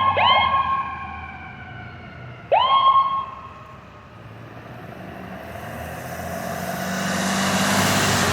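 Ambulance electronic siren giving short, quickly rising yelps at the start, then a single yelp about two and a half seconds in. The hiss of tyres on a wet road then rises as a vehicle approaches.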